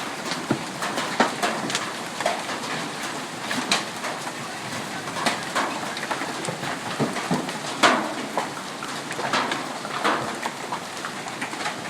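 Hailstones and heavy rain pelting down: a steady hiss of rain with irregular sharp cracks of hail striking hard surfaces, some much louder than others.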